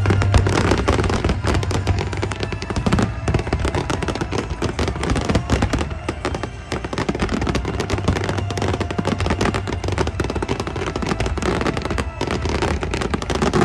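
Fireworks display going off in a dense, unbroken barrage of crackles and bangs.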